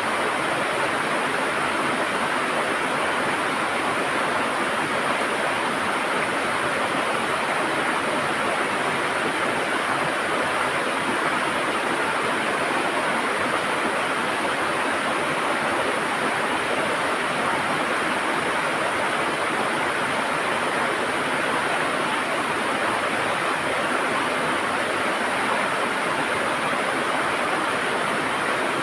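River water rushing and gurgling over rocks, a steady, even rush with no breaks.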